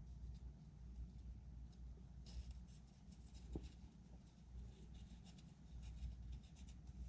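Faint light scraping and small clicks of parts and tools being handled, over a low steady rumble.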